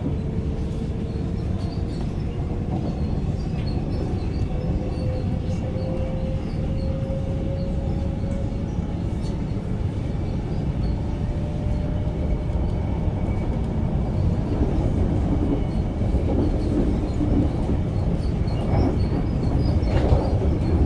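Inside a suburban electric train under way: a steady low rumble of wheels on the rails, with an electric motor whine rising slowly in pitch over the first ten seconds or so as the train picks up speed.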